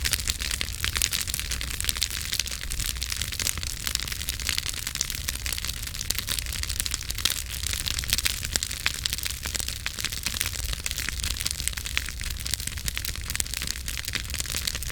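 Campfire crackling: a dense, irregular run of small pops and snaps from the burning wood, with a few louder cracks, over a low steady rumble.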